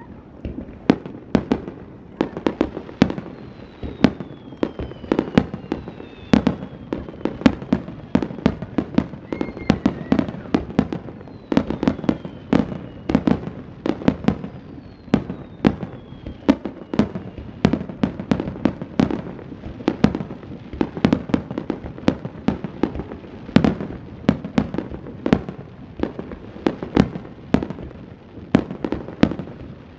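Fireworks display in a steady barrage: sharp bangs of bursting shells come several a second without a break. A few falling whistles sound among them in the first half.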